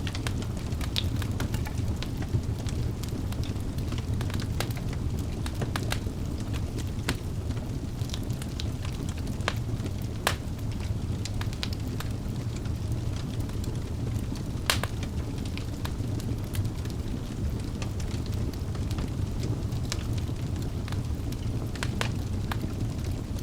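Wood fire burning in a fireplace: a steady low rumble of the flames with irregular sharp crackles and pops, a louder pop about ten seconds in and another near fifteen seconds.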